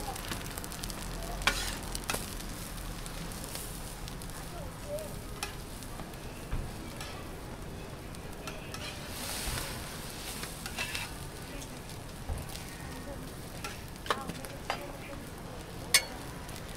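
Egg-and-vegetable patties and slices of bread frying on a flat-top griddle, a steady sizzle. A metal spatula clicks and scrapes against the griddle plate now and then, most sharply near the end.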